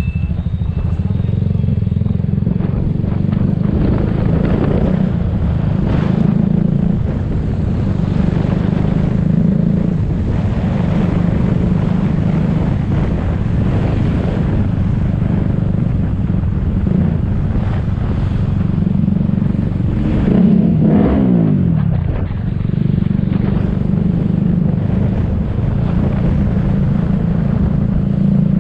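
Motor scooter riding in city traffic: a steady engine hum with road and traffic noise. About twenty seconds in, an engine's pitch sweeps briefly downward, as when a vehicle passes close by or the engine eases off.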